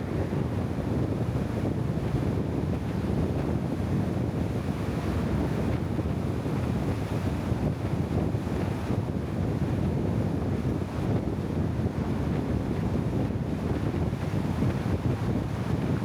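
Steady low rumbling noise with no distinct events, like wind buffeting the microphone.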